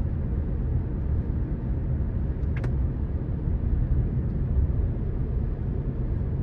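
Steady low rumble of a car on the move, road and engine noise, with a single small click about two and a half seconds in.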